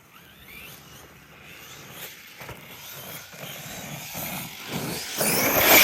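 Electric RC truck's motor whining up in pitch as it speeds toward a jump, growing steadily louder as it comes closer and loudest near the end.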